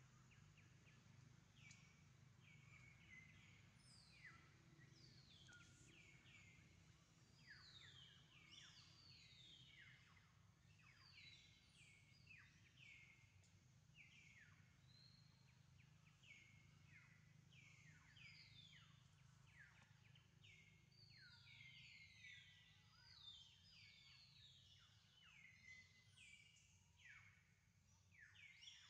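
Faint bird calls: many quick chirps falling steeply in pitch, overlapping one another, over a low steady hum.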